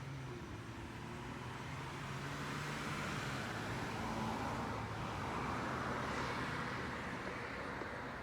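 A passing car: tyre and engine noise swelling over a few seconds, peaking midway and fading away.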